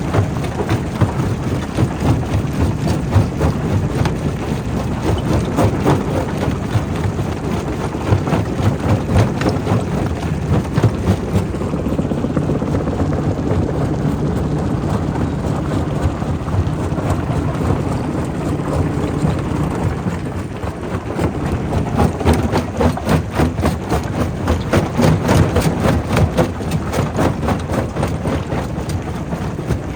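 Primary rock crusher running, with rock knocking and grinding through it over a steady heavy-machinery drone. The knocks come thick and irregular, easing briefly about two-thirds of the way in.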